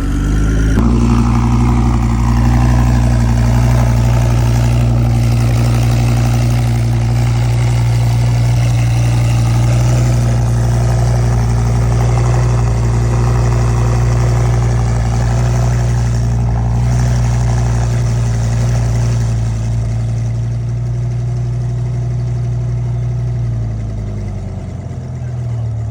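A car engine idling close by, a loud, steady low hum. Its pitch and level drop slightly near the end.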